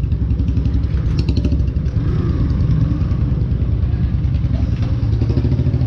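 KTM RC 390's single-cylinder engine idling steadily, a low even rumble.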